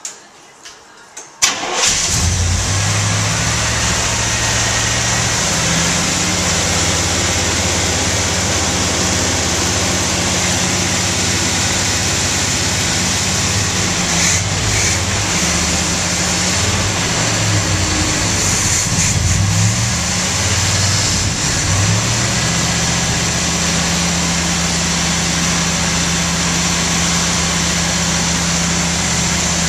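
Freshly built 1971 Corvette V8 started for its first break-in run: a few short clicks, then the engine catches about a second and a half in and runs with an uneven, wandering speed that steadies after about twenty seconds.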